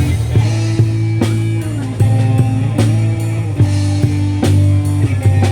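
Instrumental intro of a rock ballad played by a band: drum kit strikes at a steady beat over sustained bass and guitar chords.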